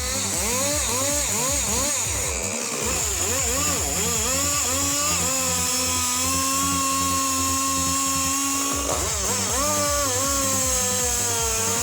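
Chainsaw engine revving up and down in quick bursts, then held at a steady high pitch for a few seconds as it cuts, before revving and falling again.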